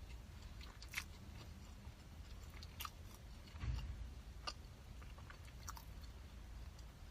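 Close-miked eating: chewing with a few sharp crunchy bites spread a second or two apart, and a soft low thump a little past halfway.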